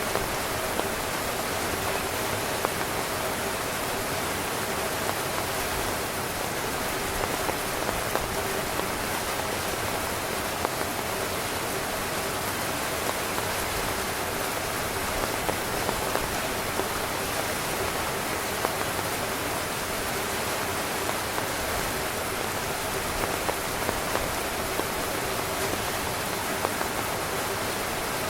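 Steady rain falling on a tent, a continuous even hiss with many individual drops tapping sharply on the fabric.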